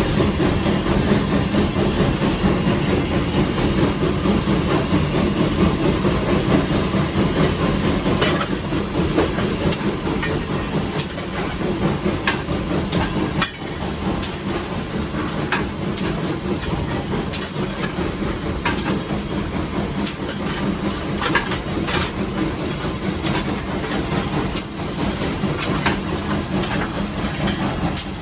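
Steam locomotive No. 81, a Baldwin 2-8-0, working up a grade, heard from inside its cab: a steady rumble and hiss of steam. Sharp clicks and knocks come at irregular intervals from about eight seconds in.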